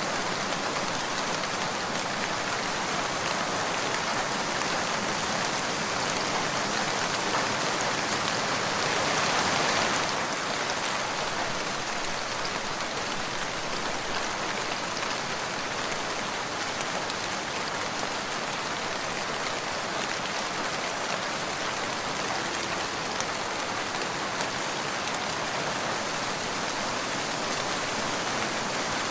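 Steady rain falling, an even hiss of drops, swelling a little louder for a few seconds before the middle.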